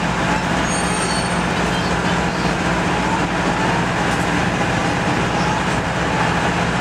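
Steady running noise of a diesel-hauled passenger train heard from on board: a constant low diesel engine drone over wheel and track rumble, with a brief faint high squeal about a second in.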